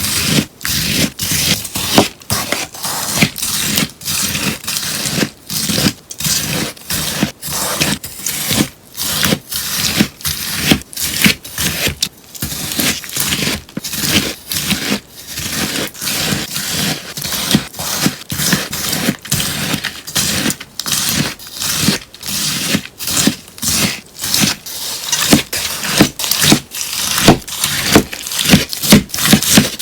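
Crunchy slime with pieces of melamine sponge being pressed and worked by hand, giving a run of crisp crunching and crackling sounds about two to three a second.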